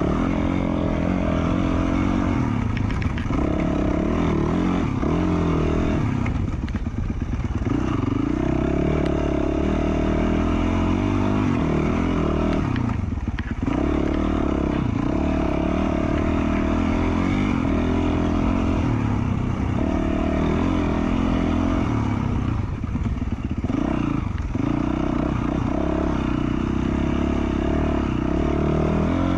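2020 Yamaha YZ450F's single-cylinder four-stroke engine with an FMF Q4 slip-on exhaust, running under riding load, its pitch dropping and climbing again several times as the throttle is rolled off and back on.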